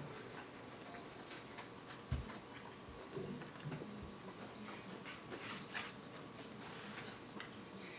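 A person chewing a mouthful of food close to the microphone, with soft mouth noises and small clicks. A single dull knock comes about two seconds in.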